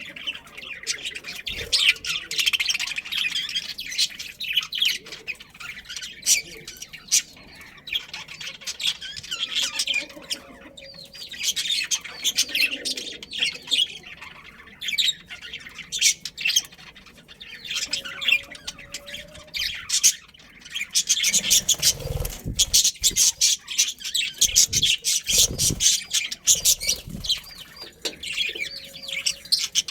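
A flock of budgerigars chattering and chirping without pause, with a few dull low thumps about three-quarters of the way through.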